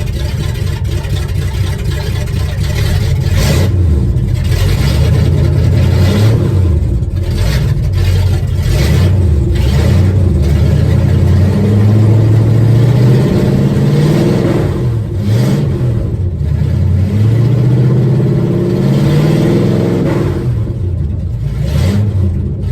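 Classic Ford truck's engine running still cold, revved up and down several times in the middle. The engine tends to stall, which the owner puts down to it running cold or a carburetor that may need rebuilding or adjusting.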